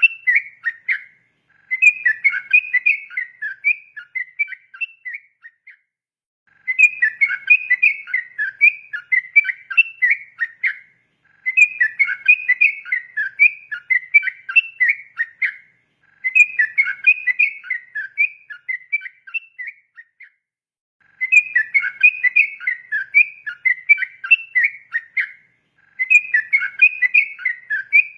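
Yellow-vented bulbul (trucukan) singing long, rapid runs of bubbly whistled notes ('ropel'). Each phrase lasts about four to five seconds and is followed by a pause of about a second. Six such phrases are heard.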